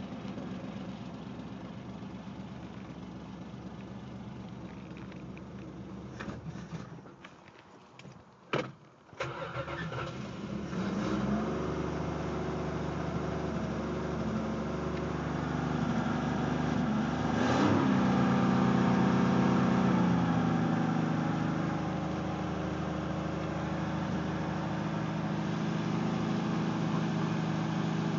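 Plymouth Valiant slant-six engine on a cold start without choke, with a new stock-type muffler: it runs, falters and dies away about seven seconds in, then is restarted and catches about ten seconds in. It gets a short blip of the throttle, holds a faster idle for a few seconds, then settles to a steadier idle.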